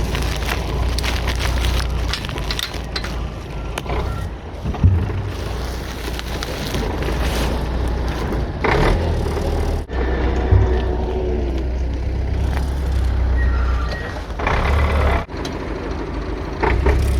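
Heavy farm machinery running: a steady low engine hum with scattered clanks and knocks, and a brief gliding whine about nine to eleven seconds in.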